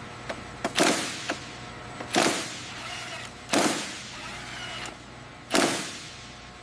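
Four loud sharp impacts, spaced roughly one and a half to two seconds apart, each dying away quickly, with a few lighter clicks in between.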